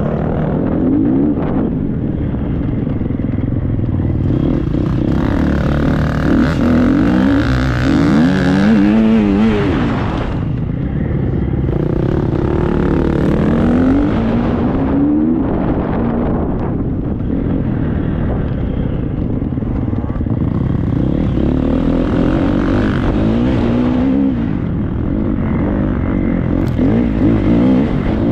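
Triumph 250 motocross bike's engine revving up and down again and again as it is ridden hard, with heavy wind rumble on the helmet microphone.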